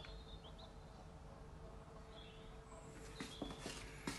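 Faint bird chirps, a few short calls, over quiet room tone with a faint steady hum. A few soft knocks come near the end.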